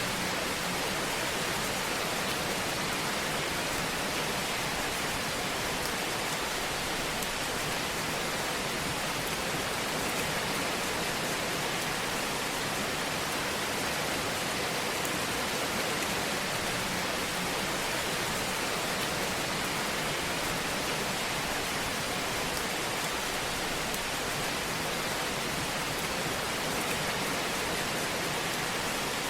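Fire burning in a fireplace: a steady, even hiss with faint scattered crackles.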